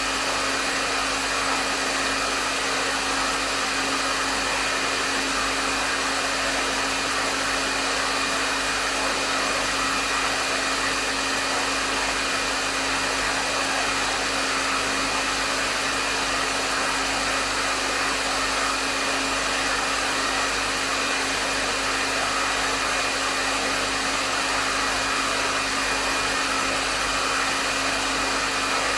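Hair dryer running steadily, with an even rush of air and a constant motor hum.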